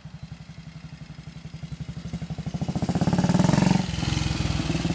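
1941 Matchless G3 motorcycle's 350cc single-cylinder engine (a G3L engine) running with an even firing beat. It grows louder to a peak about three and a half seconds in, then eases back a little.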